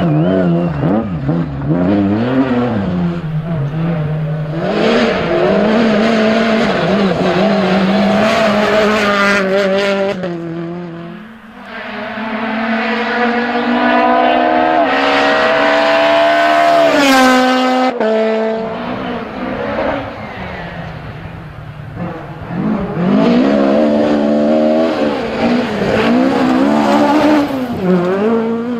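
Rally car engines at full effort on a stage, revving up and dropping back through gear changes. Around the middle one long pull climbs steadily in pitch and then cuts off abruptly.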